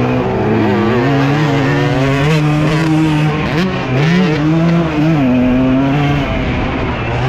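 Dirt bike engine under race throttle, heard from the rider's own bike, its pitch rising and dropping repeatedly as the rider works the throttle and shifts gears.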